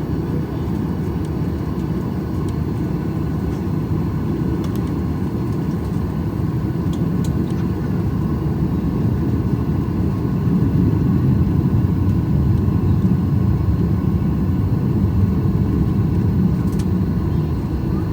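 Steady low rumble inside the cabin of a Boeing 737-800 while it taxis, its CFM56 engines running at low thrust. The rumble swells slightly about halfway through.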